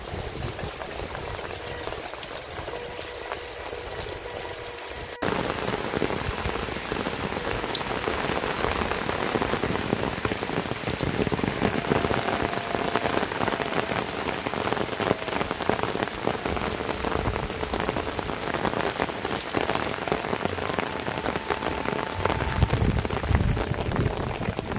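Heavy rain pouring down, a dense steady patter of drops that turns suddenly louder about five seconds in.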